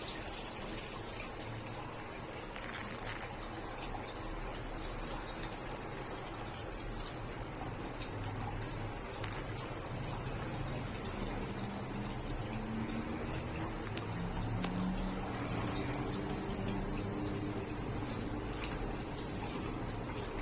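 Water running steadily, with scattered small clicks.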